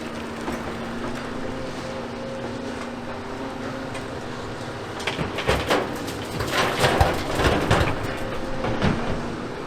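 Excavator diesel engine running steadily. From about five seconds in comes a run of clattering, crashing impacts, the sound of demolition rubble dropping into a steel truck bed, and it dies away about nine seconds in.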